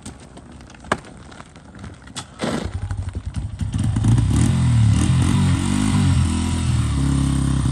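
A few sharp knocks. Then, about two and a half seconds in, the 2005 Honda CRF80's small single-cylinder four-stroke engine catches on a roll start in first gear and runs, its revs rising and falling before settling steadier near the end. This is the first start after a carburettor rebuild on a bike that had sat for years.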